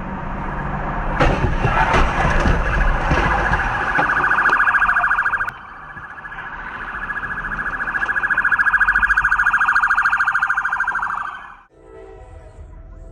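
A loud electronic alarm tone pulsing very fast, with a clatter of sharp knocks under it in the first few seconds. It breaks off about five and a half seconds in, starts again and fades out near the end.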